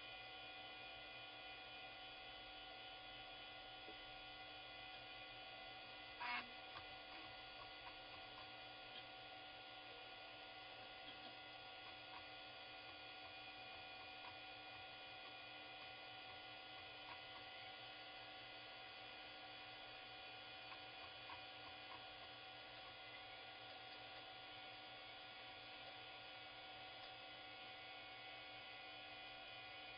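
Faint, steady electrical hum and whine made of several constant tones, with one short, sharp sound about six seconds in.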